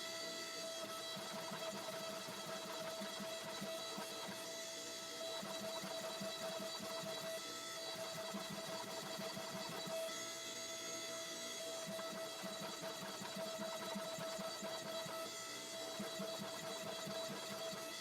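Forging machinery running steadily: a constant whine with a fast low pulsing under it, without distinct hammer blows.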